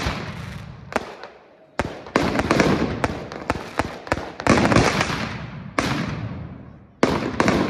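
Fireworks shells bursting overhead: about half a dozen loud bangs a second or so apart, each followed by a rolling echo that dies away.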